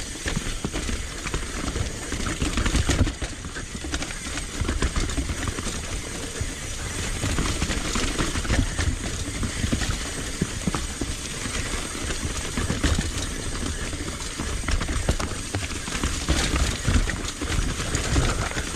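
Mountain bike rolling down a rough, technical dirt trail: a steady stream of tyre crunches and knocks over the ground, with the bike rattling over bumps and a low rumble of wind on the microphone.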